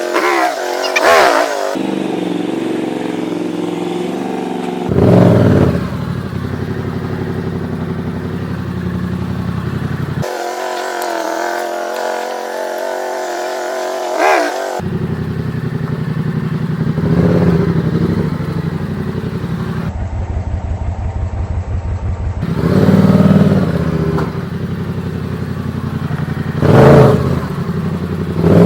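Yamaha XSR700's parallel-twin engine running, with several louder swells of a second or two that rise and fall.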